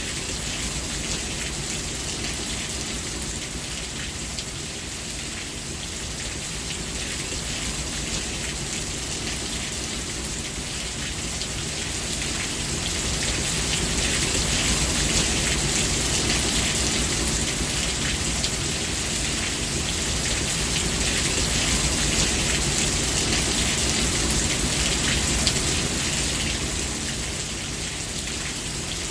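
Steady rain falling and pattering on a surface, with a low rumble underneath; it grows a little louder about halfway through, then eases off near the end.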